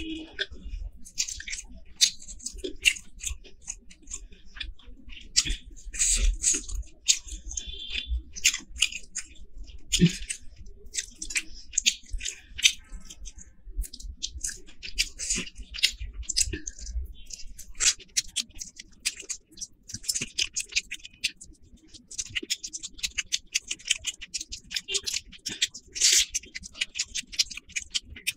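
Close-miked eating sounds: a person chewing mouthfuls of curry and rice, with many irregular wet clicks and smacks of lips and mouth.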